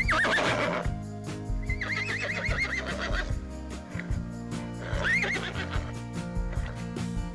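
High, quavering animal calls, three times: a short one at the start, a longer trembling one about two seconds in, and a short one near five seconds, over steady background music.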